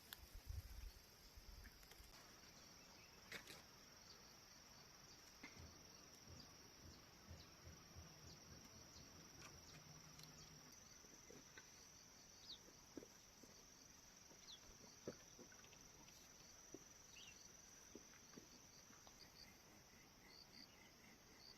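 Faint forest ambience: a steady high insect drone, with scattered small clicks and knocks and a few short high chirps.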